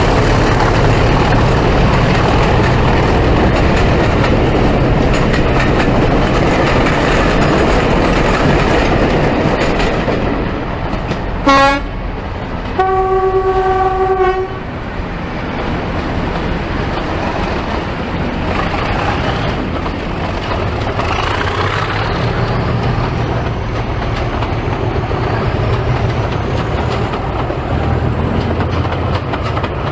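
Diesel locomotive running under power, sounding its horn twice about halfway through: a short blast, then a longer steady note. Afterwards it runs on more quietly, with a faint rising whine.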